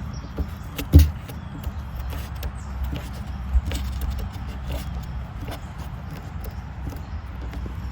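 Hands working on a plastic barrel: scattered small clicks and knocks over a low rumble, with one sharp thump about a second in and a smaller one a few seconds later.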